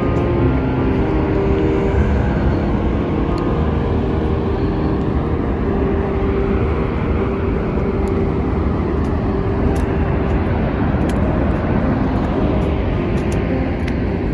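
Steady, unbroken roar of Niagara's Horseshoe Falls close by, with small scattered clicks over it.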